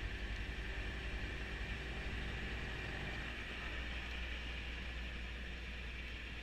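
Kubota B2650 compact tractor's three-cylinder diesel engine running steadily, with the front-mounted snowblower running and a steady hiss over the engine note.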